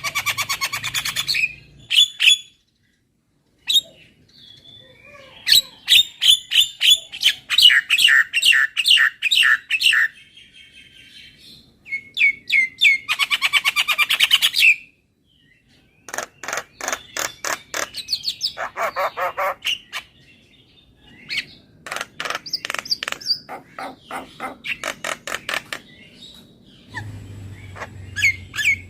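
Javan myna (jalak kebo) singing: runs of rapid, repeated sharp chirps in bursts of a few seconds each, broken by short pauses.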